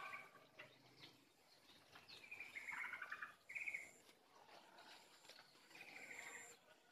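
Faint bird chirps and short rapid trills from small birds, heard in a few separate bouts about two, three and a half, and six seconds in, over a quiet background.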